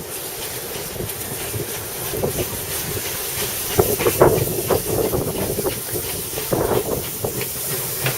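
Steam locomotive with steam hissing steadily, and bursts of short sharp knocks about four seconds in and again near seven seconds.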